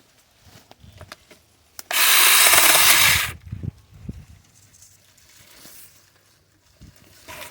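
Tingmengte 6-inch cordless mini chainsaw cutting through a branch in one short burst of about a second and a half, about two seconds in, followed by a few low knocks and rustles of brush.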